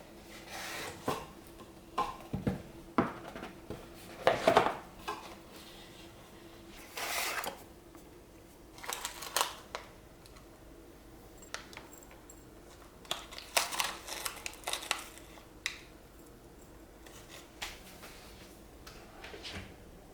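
Tableware being handled: scattered short clinks and knocks of cups, dishes and cutlery, over a faint steady hum.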